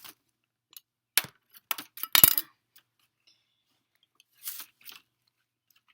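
Sequins rattling and clinking in their small plastic container as it is handled and opened, in a few short bursts, the loudest about two seconds in.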